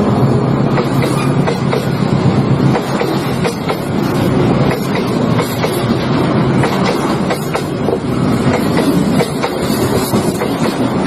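A train running over the rail joints: a steady rumble of wheels on track, broken by many sharp, uneven clacks.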